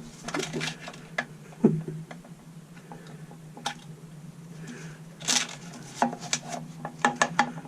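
Small plastic engine parts being handled: scattered clicks, taps and light scrapes as a strimmer's fuel tank and fuel lines are worked loose and checked, with a cluster of quick clicks near the end. A steady low hum lies underneath.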